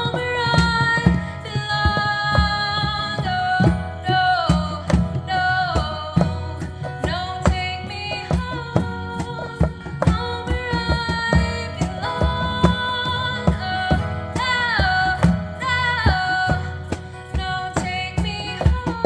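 Live music: a singer's melody with held notes and sliding pitch over a steady hand-drum rhythm.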